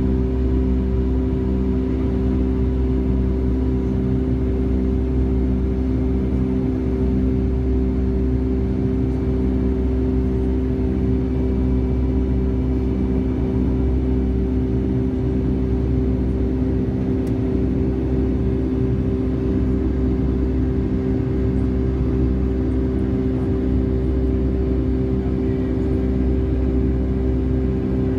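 Steady cabin drone of a Boeing 757-200 heard from a window seat: jet engine and airflow noise with a constant low rumble and a steady hum, unchanging throughout.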